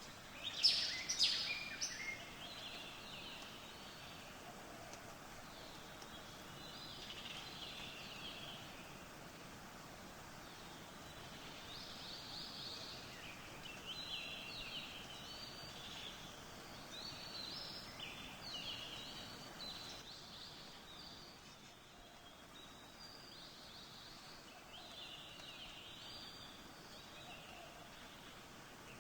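Birds chirping and singing on and off over a steady faint hiss, with a few louder, sharp calls about a second in.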